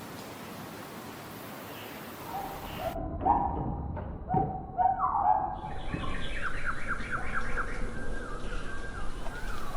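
Bird calls: a few short calls about three to five seconds in, then a quick run of repeated higher notes, several a second, that stops abruptly at the end.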